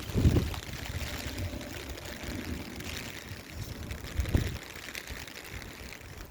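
Strong wind buffeting the microphone in irregular low gusts, the two heaviest about a quarter second in and about four seconds in, over the steady hiss of heavy rain.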